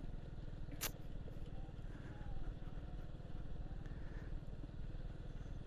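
Motorcycle engine running steadily while riding, a low pulsing drone, with a single sharp click a little under a second in.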